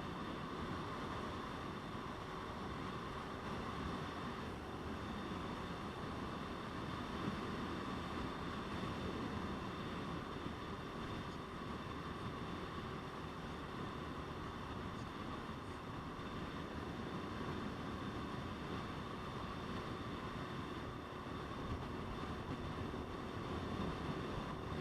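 Motorcycle riding at a steady pace: engine and road noise under wind rushing over the microphone, unchanging throughout.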